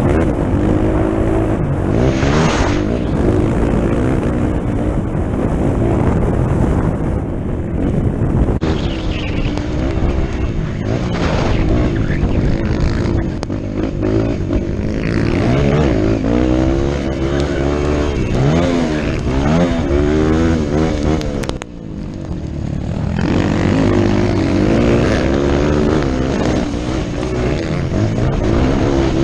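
Motocross dirt bike engine at racing speed, its pitch rising and falling again and again as the throttle is opened and closed through gear changes, with a rushing noise over it. The engine briefly drops off about 22 seconds in, then picks up again.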